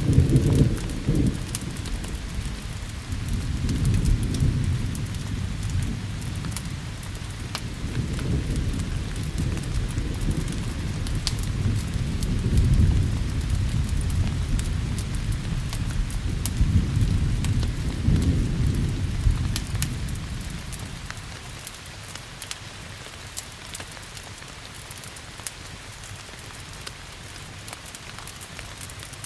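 Thunder rumbling over steady rain, with scattered crackles from a log fire. The thunder opens with a sharp crack, swells in several rolling waves, then fades about two-thirds of the way through, leaving rain hiss and crackles.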